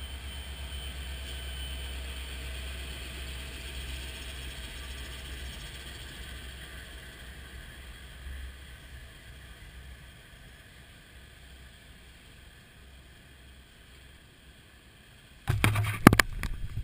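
Coal hopper cars of a freight train rolling past on the rails, a steady low rumble of wheels that slowly fades. Near the end come several loud knocks and rubs from a hand handling the camera.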